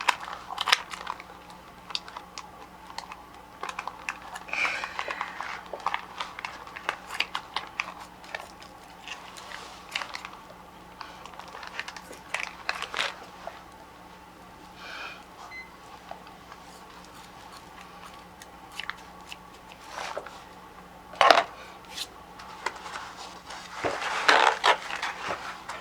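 Plastic bag crinkling and rustling as it is handled and cut open with scissors, in scattered short clicks and rustles, with one louder clack about three-quarters of the way through.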